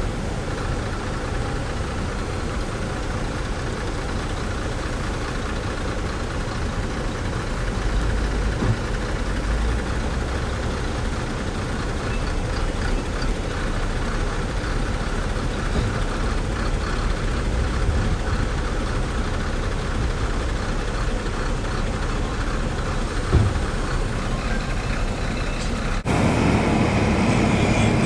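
Diesel engines of heavy earthmoving machinery (bulldozer and dump trucks) running steadily, with a single knock a little before the end. Near the end the sound cuts abruptly to a louder engine stretch.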